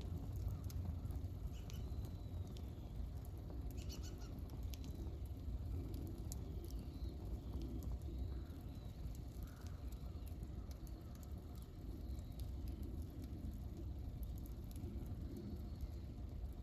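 Wood campfire burning, with scattered sharp crackles and pops over a steady low rumble, and faint bird chirps in the background.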